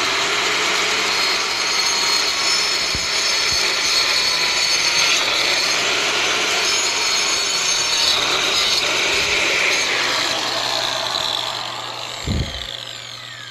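Handheld electric marble-cutting saw (a 'maquita') cutting steadily through a soft piece of fireplace cladding along a marked line. Near the end the cut finishes and the saw winds down, with one short low thump.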